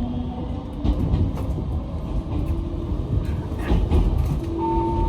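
Local train running just after pulling out of a station: a steady rumble with a few clacks of the wheels over rail joints, and a motor whine that steps up in pitch as the train gathers speed.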